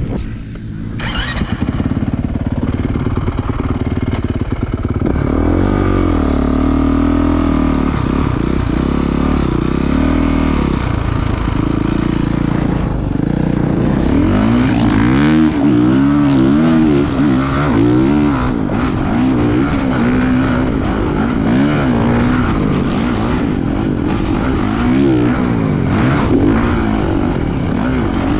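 Motocross dirt bike engine running, its pitch rising and falling as the throttle is opened and closed repeatedly through the second half.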